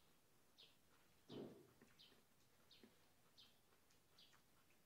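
Faint, evenly repeated high chirps from a small bird, about one every two-thirds of a second, each falling slightly in pitch. There is one brief louder rustle about a second and a half in.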